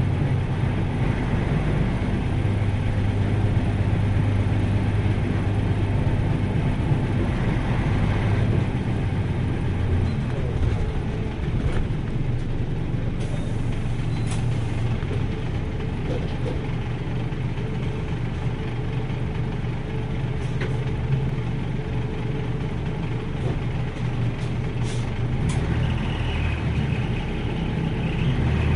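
Diesel engine of a 1994 Nissan Diesel U-UA440LSN city bus running steadily, heard from on board as the bus travels, with a low engine hum and a few faint clicks.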